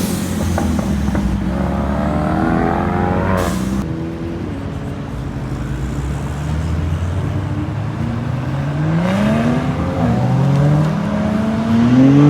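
Car engines running and being revved hard as cars pull out and accelerate. The revs climb about two seconds in and drop off just before four seconds. From about eight seconds on they climb and fall several times, as when a car is pushed up through the gears.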